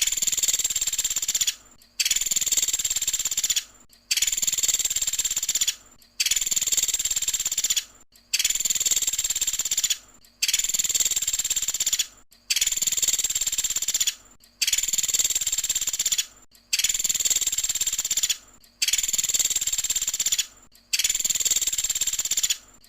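Pelatuk sampit woodpecker giving a loud, high-pitched rapid trill about a second and a half long. The same call repeats at even intervals of about two seconds, about eleven times, as in a looped training recording.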